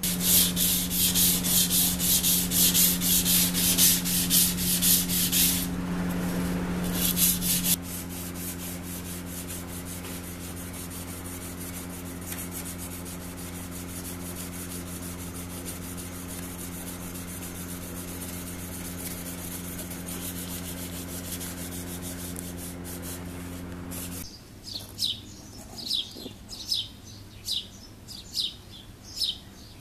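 Fast, even sanding strokes on the knife blade, about five a second, over the steady hum of a running motor. The strokes stop after about eight seconds and the motor hum runs on alone. About 24 seconds in the hum cuts out, and a bird chirps over and over, roughly once a second or a little faster.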